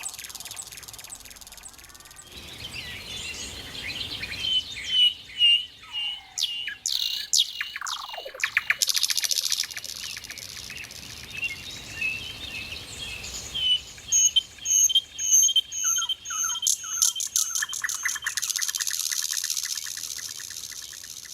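Nightingale singing a varied song: runs of repeated sharp notes, whistled slides falling in pitch, and fast rattling trills, broken by short pauses.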